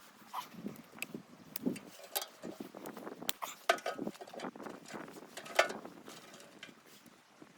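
Irregular clicks, knocks and rustling, with two sharper, louder clicks in the middle.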